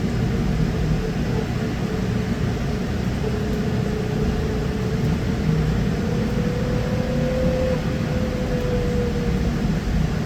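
Trolleybus in motion, heard from inside: a steady rumble from the road and body, with a whine from the electric traction drive that slowly rises in pitch and eases back down near the end.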